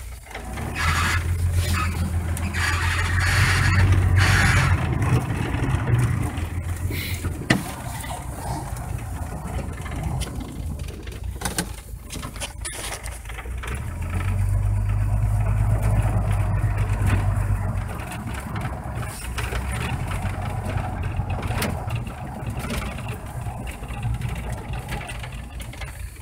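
Ford 300 inline-six pickup engine running and pulling the truck around, rising twice to a louder, harder-working stretch (about a second in until about seven seconds, and again from about fourteen to eighteen seconds) and settling back to a steadier run between, with a couple of sharp knocks in the middle.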